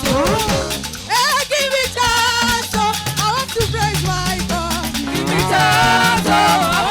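Live church praise band playing an upbeat dance groove, with a steady bass line, drums and shakers, and melody lines sliding up and down above it.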